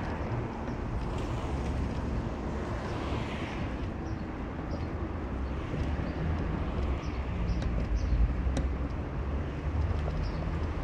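Car on the move: steady low engine and road rumble with a few faint clicks and knocks.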